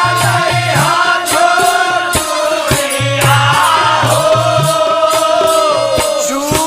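Instrumental break in a Bhojpuri Holi folk song: a wavering, ornamented lead melody over a steady drum beat and a pulsing bass.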